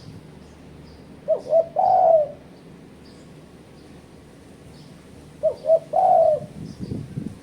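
Spotted dove (tekukur) cooing: two phrases about four seconds apart, each two short notes followed by a longer drawn-out coo. Faint chirps of small birds are heard in the background.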